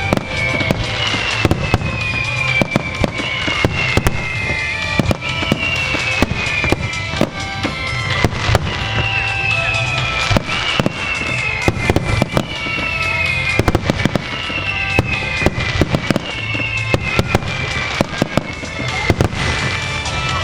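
Starmine fireworks display: a rapid barrage of aerial shell bursts going off, with a high falling tone repeating every second or two.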